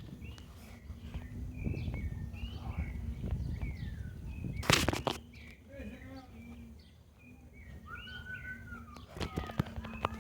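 Birds chirping in short repeated calls over a steady low rumble, with one loud sharp rustle or knock about halfway through.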